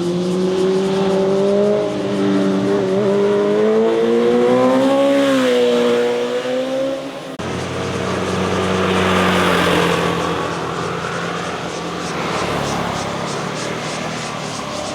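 Motorcycle engines on a winding road: one bike's engine rises and falls in pitch as it revs through a corner, then after an abrupt cut about seven seconds in, another motorcycle approaches and passes with a louder swell of engine and road noise.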